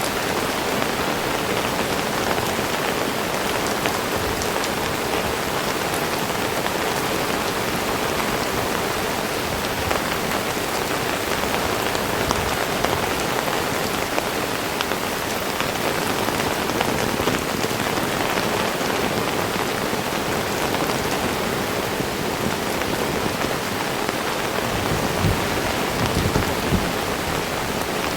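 Heavy rain falling steadily and densely. A low rumble comes in near the end.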